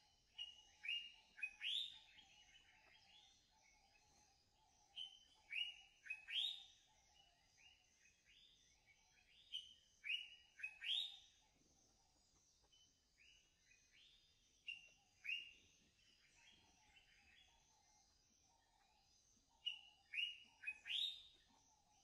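A songbird singing repeated short phrases of three or four quick, sharp chirping notes, a phrase every four to five seconds, over a faint steady high buzz.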